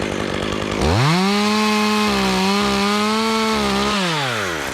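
Chainsaw engine revved from idle up to full throttle about a second in, held high for about three seconds, then let back down toward idle near the end.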